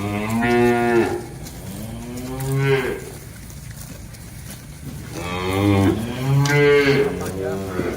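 Cattle mooing: four long, drawn-out moos at roughly two-second spacing, then a shorter one near the end.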